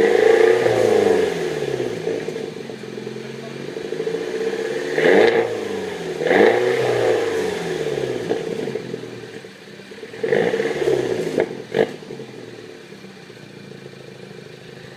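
Exhaust of a Mini Cooper R56 John Cooper Works with its 1.6-litre turbocharged four-cylinder, revved from idle in four blips that rise and fall back. A sharp crack comes just after the last blip, then it settles to a steady idle.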